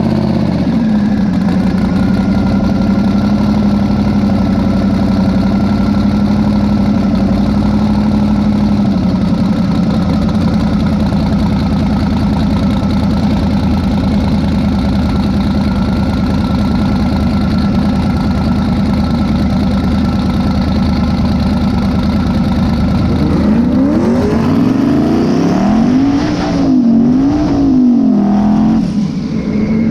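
Twin-turbo Mazda B2000 pickup's engine running at a steady idle, then revved up and down several times near the end.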